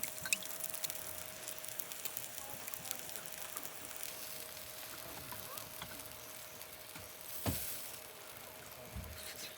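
Pork back ribs sizzling and crackling on a charcoal grill, a steady hiss full of small pops, with one short thump about three-quarters of the way through.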